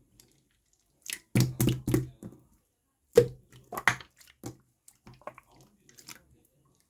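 Pink slime squished and pressed by hand, giving a string of wet clicks and pops: a quick cluster about one and a half to two seconds in, the loudest pop just after three seconds, then fainter, spaced-out clicks.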